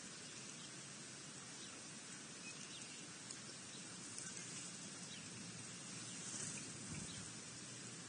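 Faint outdoor ambience: a steady hiss with scattered faint, short, high bird calls.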